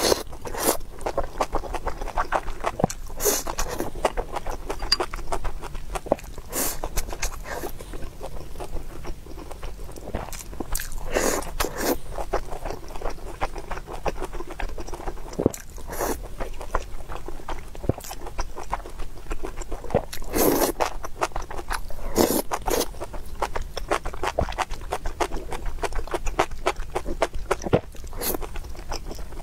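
Close-miked chewing and wet mouth sounds of a person eating rice and saucy enoki mushrooms, a steady run of small clicks and crackles with several louder bursts.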